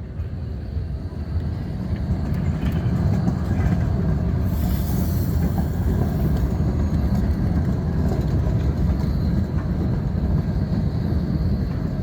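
Škoda 52T ForCity Alpha tram running along the track, a steady low rumble that builds over the first few seconds, with a brief high hiss about five seconds in.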